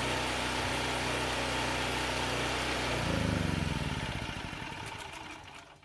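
A portable generator's small single-cylinder engine runs steadily, then about three seconds in surges briefly and shuts down. Its firing slows into separate pulses as it coasts to a stop.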